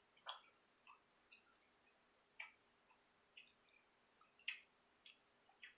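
Near silence with about a dozen faint, irregular small clicks from someone chewing kangaroo jerky.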